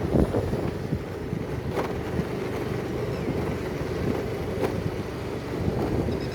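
Wind rumbling and buffeting on the microphone, with two faint clicks about two and four and a half seconds in.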